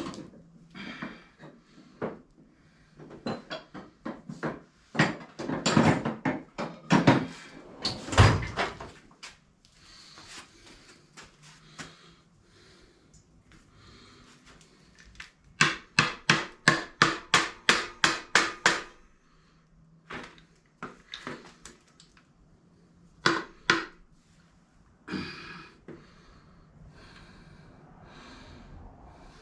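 Tools knocking and clanking on a small Briggs & Stratton mower engine being forced apart, with a run of about a dozen quick metallic taps, about four a second, a little past the middle.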